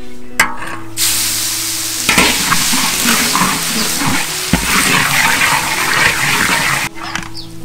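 Food sizzling in a hot pan while it is stirred, with scrapes and clicks of the utensil. The sizzle starts abruptly about a second in and cuts off suddenly near the end.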